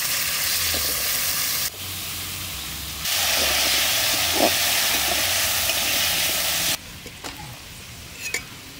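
Diced potatoes sizzling in hot oil in a kadai as they are stirred with a spatula. The sizzle drops suddenly about two seconds in, comes back loud, then falls away sharply near the end, leaving a quieter hiss with a few light clicks.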